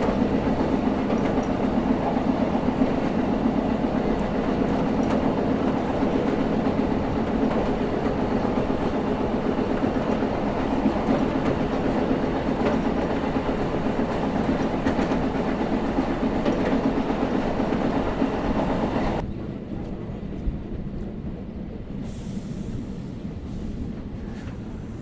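Suburban electric local train running along the line, heard from inside the coach: a steady, loud rumble of wheels and coach. About 19 seconds in, the sound drops suddenly to a quieter, duller rumble.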